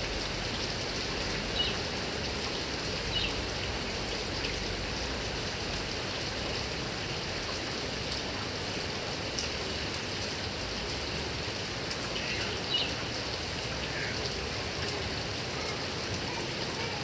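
Heavy rain falling steadily on grass and palm trees, an even wash of rain noise, with a few brief sharper sounds standing out from it.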